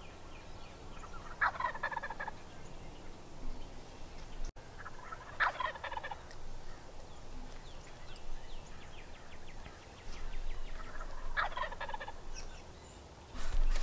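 Wild turkey gobbler gobbling three times, each a rattling gobble of under a second, about four to six seconds apart.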